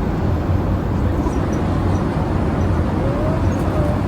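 Steady cabin noise of a Boeing 787-8 Dreamliner in cruise: an even low rush of airflow and engine drone with a deep hum underneath.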